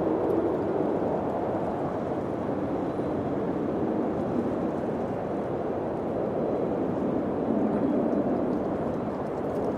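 Steady rushing wind, swelling a little about three-quarters of the way through.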